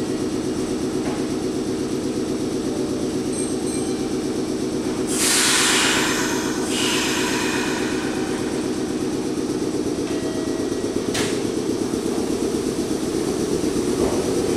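Meitetsu 6500 series electric train pulling slowly into a station platform, with a steady rolling and running noise throughout. A loud hiss comes about five seconds in and lasts a second or two, and a single sharp click comes about eleven seconds in.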